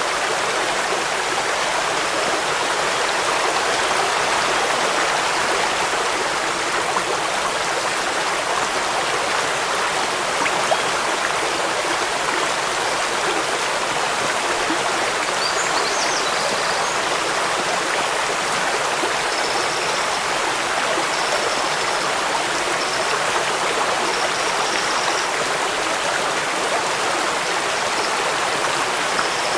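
Waterfall: steady, even rushing of falling water. A few faint high chirps come through in the second half.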